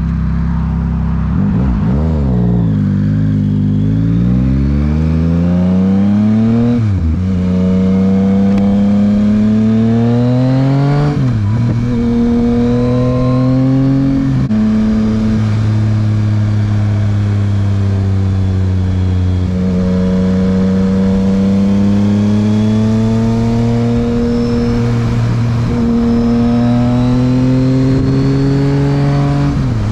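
Yamaha MT-09's 890 cc inline-three engine through a Dominator HP3 aftermarket exhaust, under way. It accelerates through the gears: the pitch climbs, then drops sharply at each upshift, three times in quick succession in the first half. After that it pulls long and steady, with a slow rise in pitch, another shift about two-thirds of the way through, and one more near the end.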